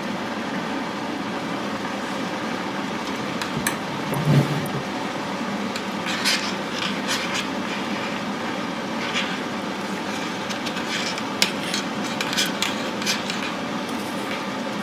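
A steady background hum, with scattered small clicks, light knocks and rustling scrapes of things being handled. There is one soft low thump about four seconds in.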